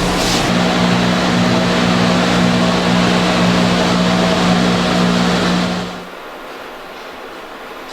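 Factory production machinery running with a loud steady hiss and hum, then dropping sharply about six seconds in to a much quieter steady hum as the machine winds down.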